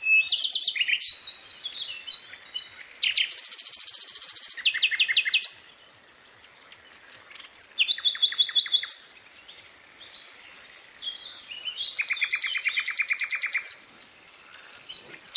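Several birds calling and chirping, with three bouts of fast, evenly pulsed trills lasting one to two seconds each, separated by short chirps and a brief lull.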